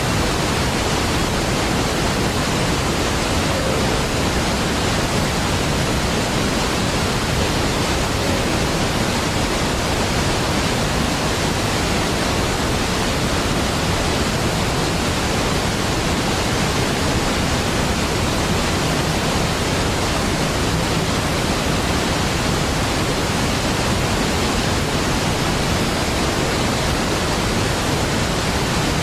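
Niagara Falls' large waterfall rushing steadily, an even, unbroken hiss of falling water spread from deep rumble to high hiss, with no changes or separate events.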